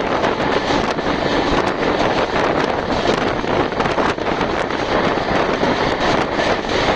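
Express train running at speed: a loud, steady rush of wind and running noise, with no change through the stretch.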